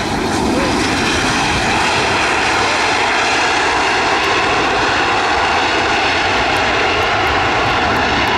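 Fixed-wing aircraft engines, a loud steady rush with a faint whine, swelling at the start and then holding level as the plane passes close on landing.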